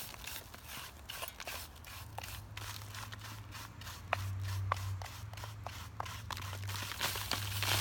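Loose rock and gravel crunching and scraping in irregular clicks and crackles, with a low steady hum that comes in about two seconds in.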